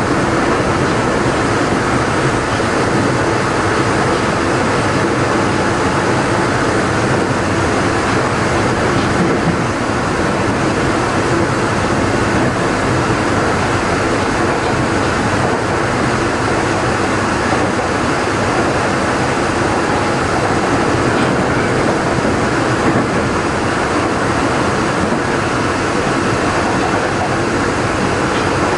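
Interior running sound of a Tokyo Metro 03 series chopper-controlled electric train car at speed, steady, with wheel and rail noise. The car is one whose traction motor makes a slight abnormal noise.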